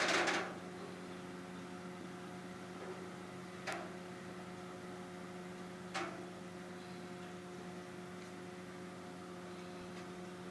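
Steady electrical hum, with a short rustling burst at the start and two brief soft clicks about a third and about halfway through.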